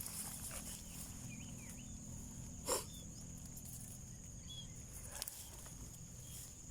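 Quiet rural outdoor ambience with a steady high buzz and a few faint short chirps, and a single sharp knock about three seconds in.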